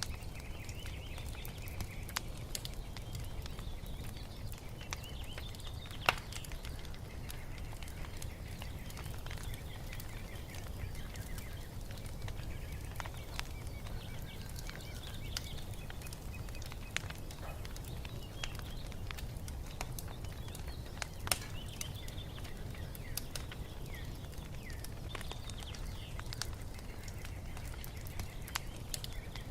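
Wood fire crackling in a fireplace: a steady low rumble with scattered snaps and two sharper pops, one about six seconds in and one about twenty-one seconds in. Small birds chirp and twitter throughout.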